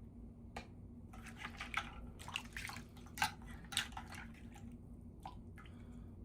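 A quick run of light clicks and taps from small objects being handled, most of them between about one and four and a half seconds in, over a steady low hum.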